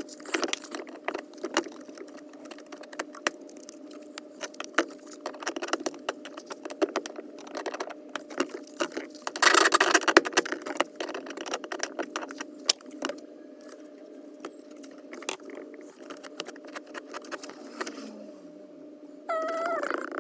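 Irregular metallic clinks and rattles of hand tools and parts being handled, over a faint steady hum, with a louder scraping rattle about halfway through.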